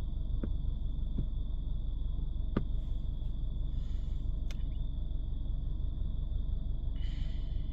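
Steady low rumble heard inside a car, with a few faint clicks scattered through it.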